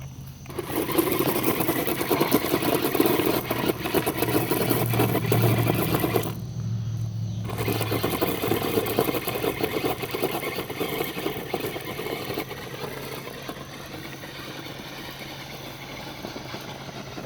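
Radio-controlled monster truck's electric motor whining at full throttle as its tyres spin in loose rocks, with gravel crackling and spraying. It cuts out for about a second partway through, then spins again and slowly gets quieter toward the end.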